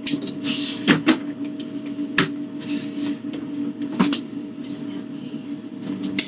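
Items being handled, moved and set down inside a refrigerator while it is being cleaned out: about five sharp knocks and clicks at irregular spacing, with short rustling scrapes between them, over a steady low hum.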